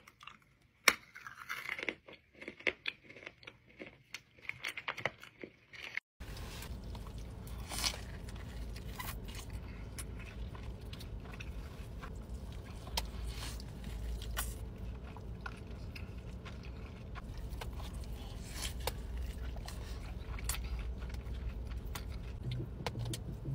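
Close-up crunchy biting and chewing of a frozen chocolate-covered fruit piece, sharp isolated crunches with quiet between them. About six seconds in this gives way to chewing a large mouthful of burger over a steady low rumble.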